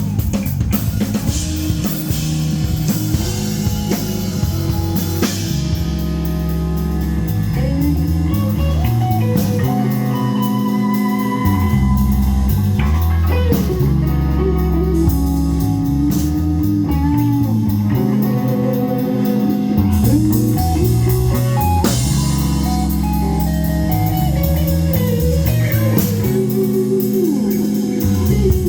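Live rock band playing a passage of a song: electric guitars over bass and a drum kit, loud and steady throughout.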